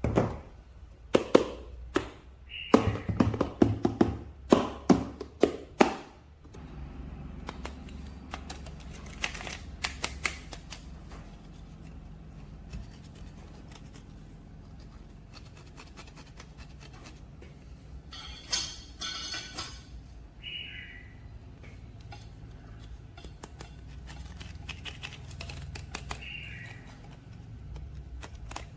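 Clicks, taps and knocks of plastic toy packaging and figure parts being handled, a dense run of sharp clicks in the first six seconds, then only scattered light clicks and a brief rustle.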